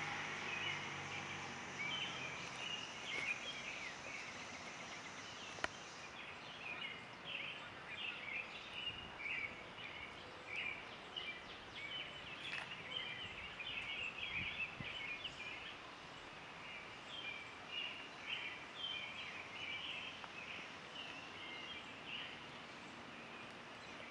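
Small birds chirping and calling over and over, over a faint steady outdoor background hum.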